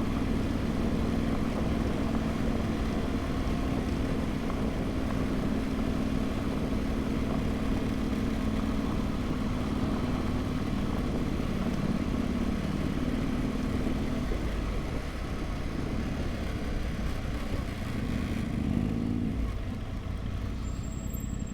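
Adventure motorcycle engine pulling steadily in a low gear up a loose-rock mountain road, with wind and road noise; the engine note eases about two-thirds of the way through and briefly rises and falls near the end.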